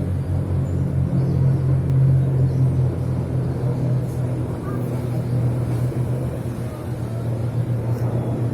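Military aircraft flying overhead, a low steady drone that swells about two seconds in and then eases slightly.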